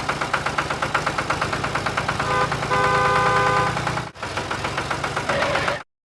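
An engine running with a rapid, even beat. A steady higher tone joins it for over a second in the middle. The engine cuts off abruptly near the end.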